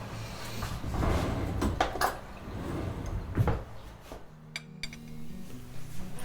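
Dishes and utensils being handled in a kitchen: a run of knocks and clinks, the loudest about three and a half seconds in, then quieter for the last couple of seconds.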